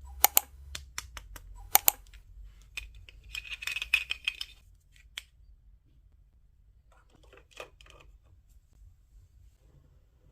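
Small hard plastic toy pieces clicking and clacking as they are handled: a few sharp clicks in the first two seconds, a brief scraping rustle around four seconds in, then softer taps near eight seconds.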